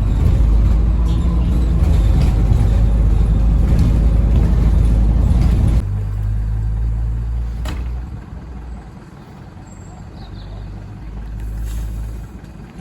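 A heavy vehicle's engine running with a deep rumble that drops abruptly about six seconds in and then fades, with a single sharp click near the eight-second mark.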